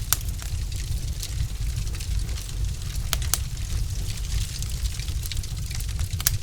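Wood fire burning in a fireplace, with a steady low rumble and irregular sharp crackles and pops from the logs, a few of them louder than the rest.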